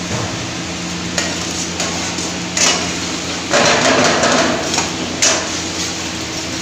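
Kitchen cooking noises: utensils knocking and scraping against cookware over a steady low hum, with a louder noisy stretch about halfway through.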